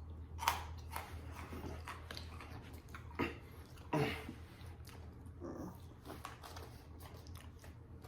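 Chewing of crunchy freeze-dried ice cream, with a few sharp mouth clicks and smacks over a steady low hum.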